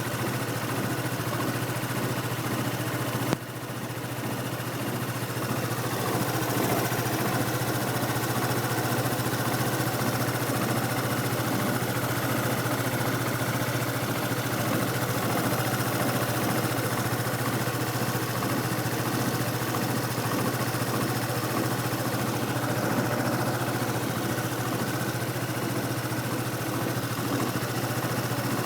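2010 Yamaha Cygnus X scooter's single-cylinder engine running steadily at idle, recorded to show an abnormal noise (異音) that the owner does not name. A sharp click comes about three seconds in, after which the sound drops and builds back up over a few seconds.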